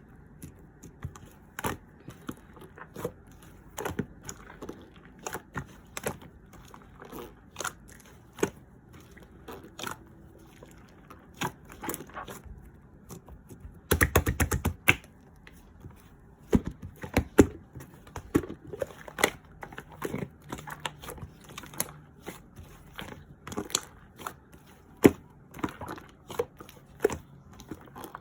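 Yellow slime being squished and pressed by hand, giving irregular sticky clicks and pops, with a quick run of rapid pops about halfway through.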